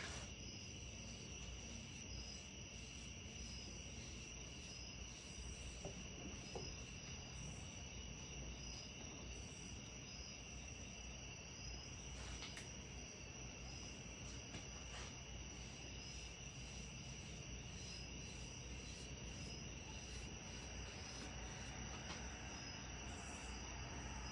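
Faint, steady chirping of crickets, a high trill pulsing evenly, over a low hum.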